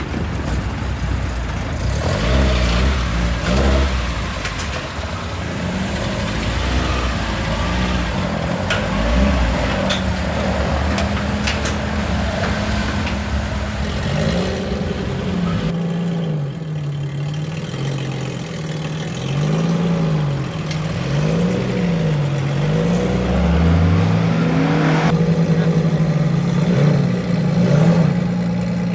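Car engines running, one revving up and down again and again, then settling into a steady idle near the end, as cars are unloaded from transporters.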